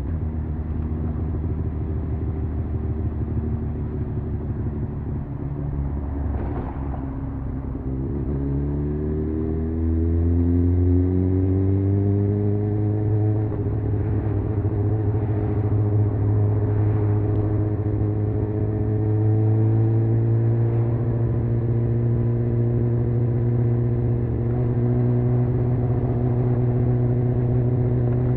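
Honda CBR600F inline-four engine heard onboard while riding: the engine note drops about six seconds in, then climbs steadily under acceleration for several seconds, getting louder, and settles into a steady cruise.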